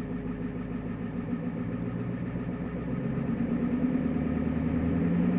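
The 7.3 IDI diesel V8 of a 1994 Ford F Super Duty dump truck running, getting louder from about halfway through as it is throttled up to pull the truck forward.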